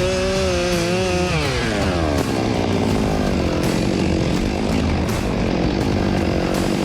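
Chainsaw running at high revs; a little over a second in, its pitch slides down and it keeps running lower and rougher, bogging as it cuts into a walnut log.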